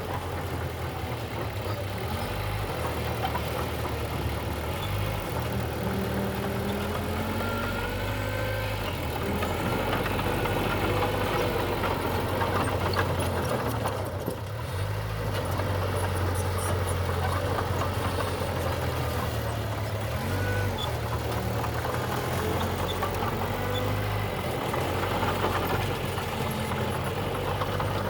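Heavy diesel engine of earthmoving machinery running steadily, its low note stepping up and down now and then.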